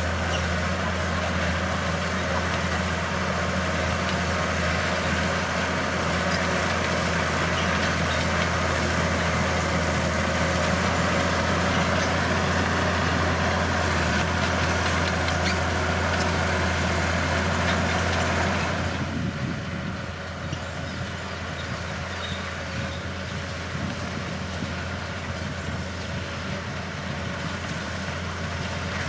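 Bulldozer's diesel engine running steadily with a dense, heavy rumble over a constant low drone. About two-thirds of the way through, the sound drops and quietens, then carries on at the lower level.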